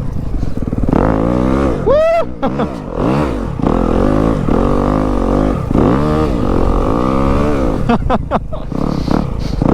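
Dirt bike engine being ridden, revving up and falling back over and over about once a second, with one sharp high rev about two seconds in.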